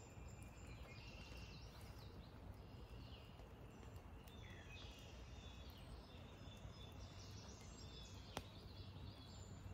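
Faint birdsong: short chirps and calls from several birds over a quiet background, with a single sharp click near the end.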